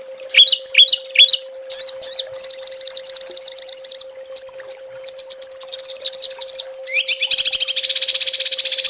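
Small songbirds singing rapid-fire trills, the 'tembakan' used in bird-training recordings: a few short rising whistled notes, then bursts of very fast, high repeated notes, the densest and longest trill starting about seven seconds in. A steady low hum runs underneath.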